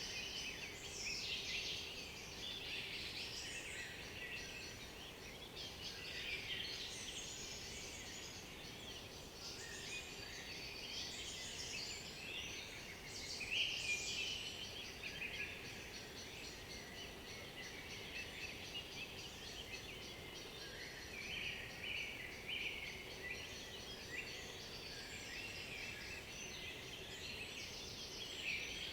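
Several forest songbirds singing at once, a dense chorus of overlapping high songs and calls, one phrase briefly louder about halfway through.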